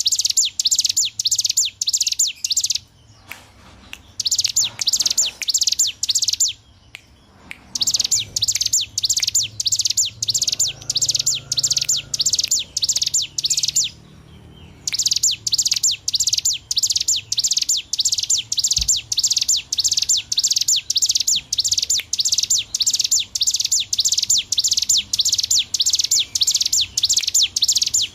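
Ciblek gunung (a prinia) singing a fast, drilling series of sharp, high notes, about three or four a second, with a few short breaks between runs.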